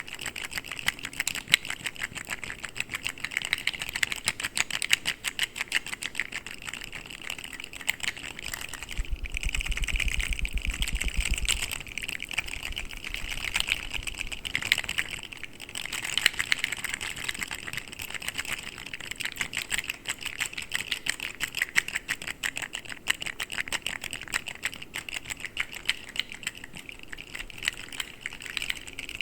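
Articulated plastic fidget slugs clicking rapidly and continuously as they are handled, with a brief low rumble about ten seconds in.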